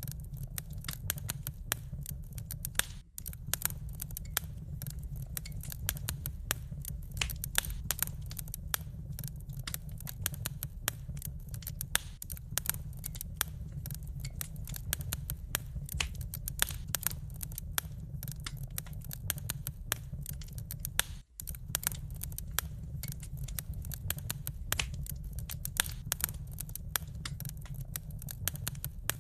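Wood fire crackling in a fireplace: dense, irregular pops and snaps over a steady low rumble. The sound cuts out for an instant twice, about three seconds in and again after twenty seconds.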